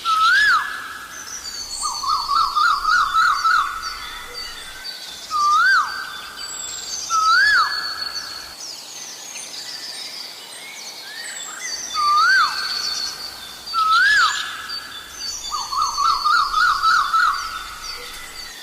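Asian koel calling: loud whistled notes that rise and fall, repeated every couple of seconds. Twice a fast run of notes comes at a similar pitch. Smaller birds chirp and twitter higher up behind.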